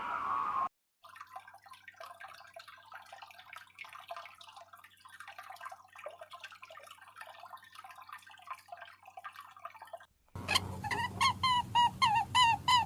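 Faint, busy high chirping. From about ten seconds in, a louder run of quick repeated animal calls, about three a second, each rising then falling in pitch.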